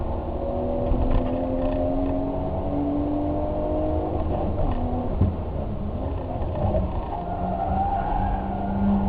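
Car engine under way: its note climbs slowly for about four seconds, drops, and later holds steady, over a constant heavy low rumble.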